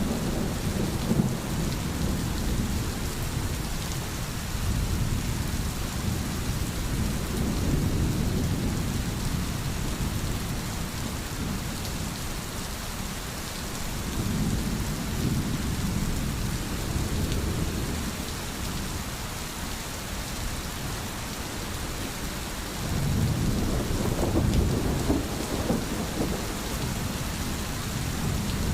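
Steady rain hissing, with low rolling thunder swelling and fading three times.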